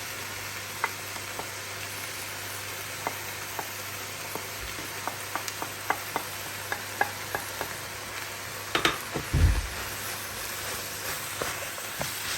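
Food frying in hot oil, a steady sizzle with scattered pops and crackles, and one dull knock about nine seconds in.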